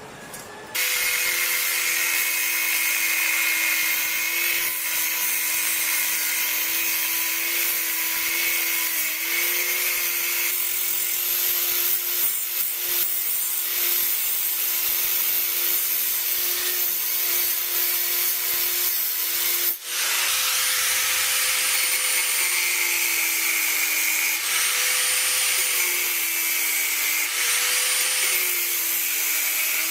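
A power grinder working metal: a steady motor whine over a dense grinding hiss, its pitch dipping briefly several times as it bites under load. It starts abruptly under a second in and breaks off for a moment about twenty seconds in.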